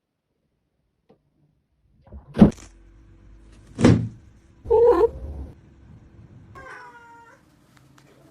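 Two loud thumps about a second and a half apart, followed by a cat meowing.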